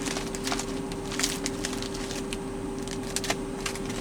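Frozen fish fillets being snapped and their plastic packaging crackling, irregular sharp cracks and rustles, over a steady hum.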